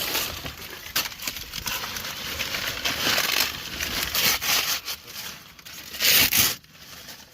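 Dry leaves and plant trash rustling and crunching as they are pressed down on top of a crate of mangoes, with a louder crunch about six seconds in.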